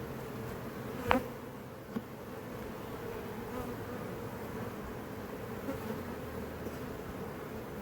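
Many honey bees buzzing around an opened hive box, a steady drone, with a sharp click about a second in and a smaller one just after.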